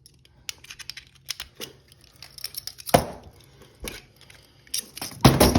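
Steel handcuffs rattling and clinking while a key is worked into the cuff lock to open them, a run of small metallic clicks with louder clanks about three seconds in and near the end.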